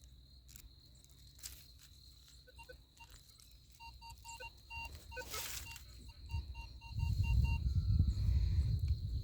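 Nokta The Legend metal detector giving a run of short, same-pitched beeps, about three to four a second, as it signals on a target. A low rumble comes in near the end.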